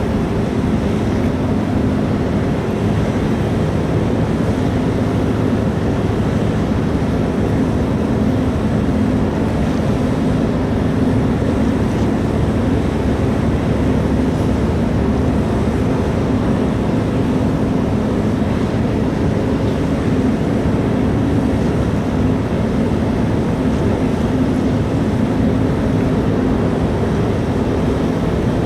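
Ferry's engines and machinery running: a steady low drone with a constant hum, unchanging throughout.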